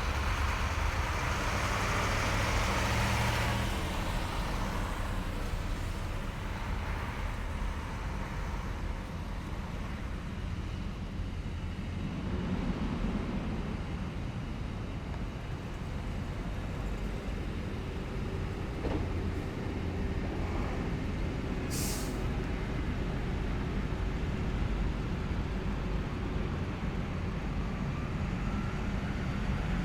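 Heavy military vehicles' engines running as a column passes along a street, a steady low rumble that is loudest at the start. A brief sharp hiss comes about two-thirds of the way through.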